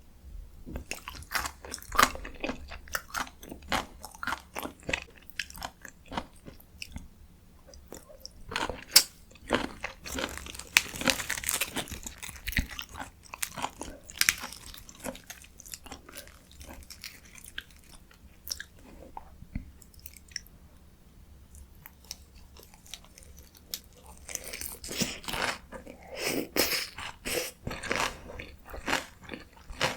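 Close-miked eating of spicy stir-fried chicken (dakgalbi): wet chewing and biting with crunchy, clicky mouth sounds. It eases off for a stretch in the middle, then picks up again near the end.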